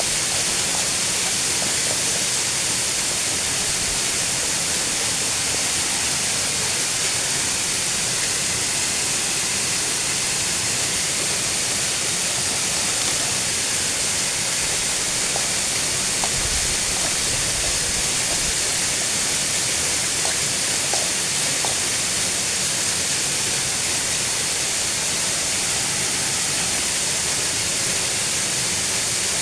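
Steady rush of a waterfall, an even hiss of falling water with no change in level.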